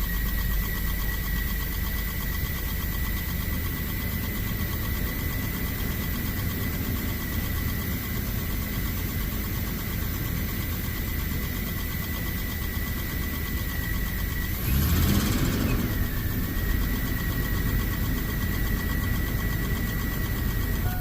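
Chevrolet Astro van's 4.3-litre V6 idling steadily with a thin high whine over it, running again after a new distributor rotor but with a light tapping that the owner puts down to the distributor cap. A brief louder surge comes about fifteen seconds in.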